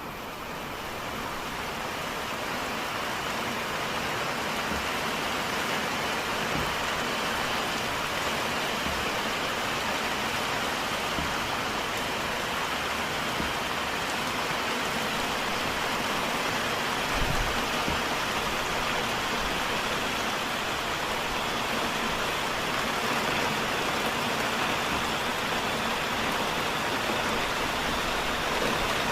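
Heavy rain falling steadily, an even hiss of downpour, with one brief low knock about seventeen seconds in.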